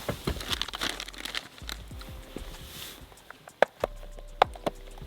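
Plastic packaging crinkling and rustling as it is handled, with a few sharp clicks and knocks, two of them standing out in the second half.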